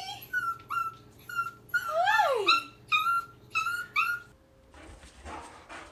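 Pet dog whining: a string of short, high-pitched whimpers with one longer whine that rises and falls about two seconds in. The whining stops about four seconds in, leaving soft breathy sounds.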